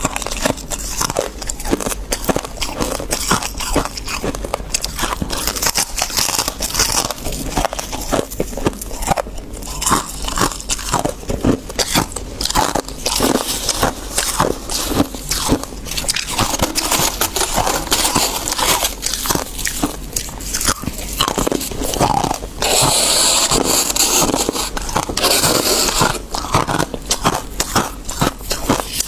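Close-miked biting and chewing of fluffy freezer frost: rapid, irregular crunches throughout, with a stretch of denser, continuous crunching a little past the three-quarter mark.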